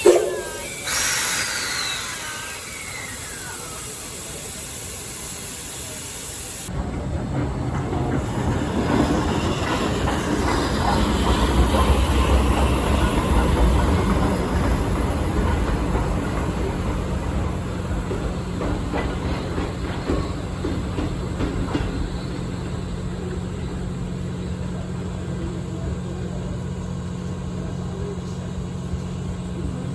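A short, loud blast at the very start with a falling tone after it and steam hissing. About seven seconds in, the sound switches to the D51 steam locomotive running with a steady low rumble and scattered rail-joint clicks.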